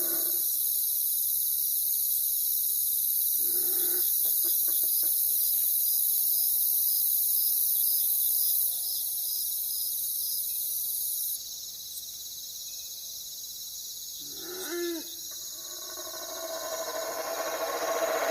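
Steady chorus of night insects with a regular chirping, and two short owl calls, one about four seconds in and one near fifteen seconds.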